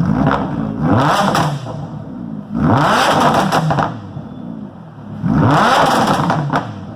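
Lamborghini Huracán's V10 engine revved three times in quick blips, the pitch climbing and falling back each time, with sharp crackles as the revs drop.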